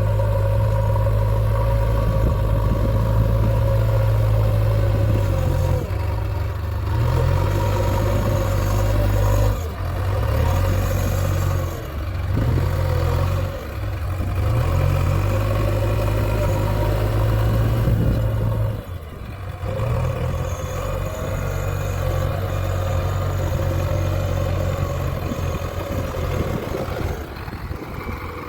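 JCB 3DX backhoe loader's diesel engine running under varying load, its speed rising and falling with several brief dips as the machine works.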